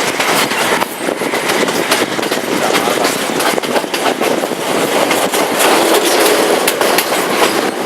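Passenger train carriage rolling along the track: a steady loud rumble and rattle, with the wheels clicking over the rail joints.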